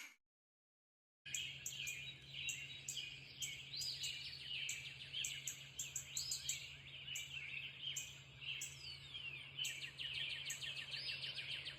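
Dawn chorus of many songbirds chirping and trilling, starting about a second in after a moment of silence, over a faint steady low hum.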